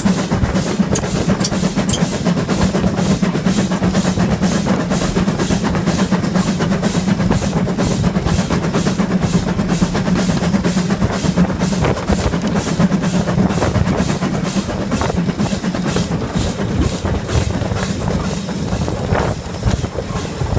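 LMS Ivatt Class 2MT 2-6-0 steam locomotive working hard uphill, heard from the footplate: a fast, regular chuff of exhaust beats over a steady rumble of wheels and motion.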